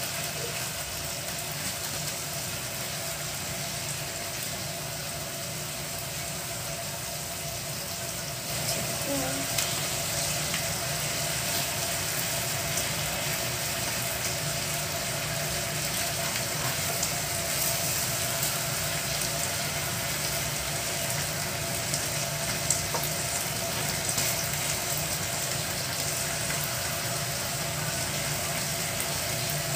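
Chicken pieces and garlic sizzling in oil and marinade in a nonstick frying pan: a steady frying hiss that grows louder about eight seconds in, with a few light clicks of metal tongs near the end.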